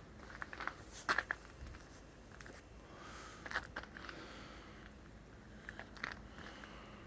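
Faint footsteps crunching in fresh snow, a few short crunches spread out over a low steady background.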